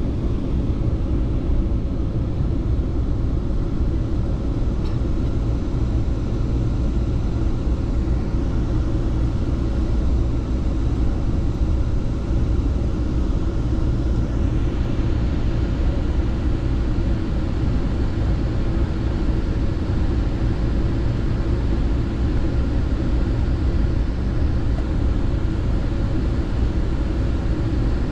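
Steady low rumble of a VIA Rail passenger train running along the track, heard from inside the coach. A higher hiss of wheels on rail joins about halfway through.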